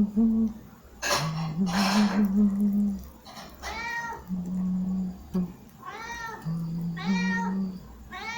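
A cat meowing repeatedly, several drawn-out meows that rise and fall in pitch, over music with sustained low notes. A noisy rushing burst comes about a second in.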